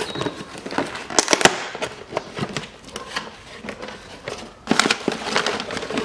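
Crinkling and rustling of packaging with irregular sharp clicks as the parts of a timing belt kit are unpacked and handled, busiest about a second in and again near the end.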